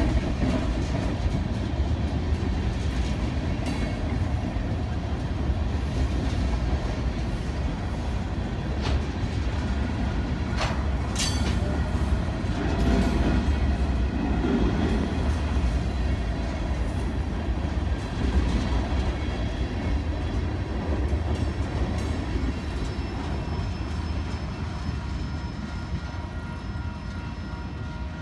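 Freight train rolling past: a steady low rumble of cars on the rails, with brief high wheel squeals about ten seconds in, growing quieter near the end.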